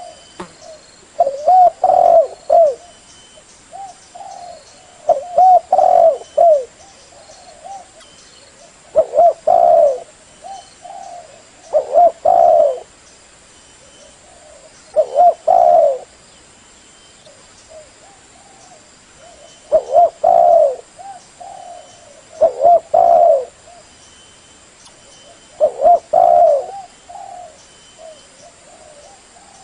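Spotted dove cooing: short phrases of several coo notes, repeated about every three seconds.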